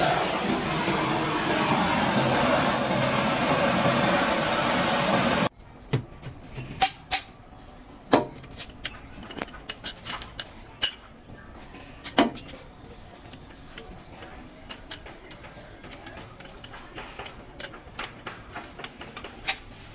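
A loud, steady rushing noise cuts off abruptly about five seconds in. After that come scattered metallic clinks and knocks, a dozen or so spread unevenly, as tools and engine parts are handled during the dismantling of a generator's diesel engine.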